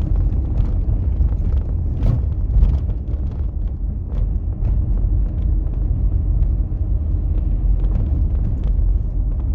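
Steady low rumble of a car on the move, with a few faint light knocks scattered through it.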